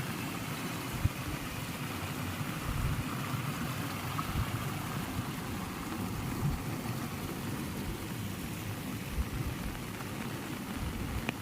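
Heavy rain pouring steadily, with irregular low thuds and a sharp tap about a second in.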